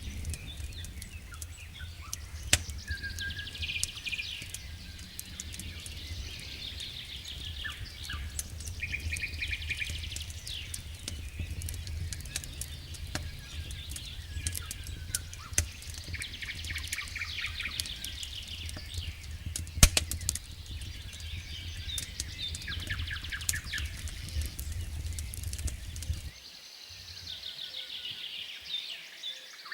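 Wood fire in a fireplace crackling, with scattered sharp pops and one loud pop about two-thirds of the way through, over a steady low rumble. Birds chirp and trill in the background.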